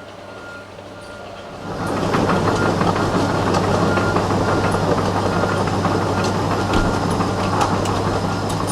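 Heavy demolition machinery at work: an engine running steadily while a dense, loud clatter of metal knocks and crunches sets in just under two seconds in.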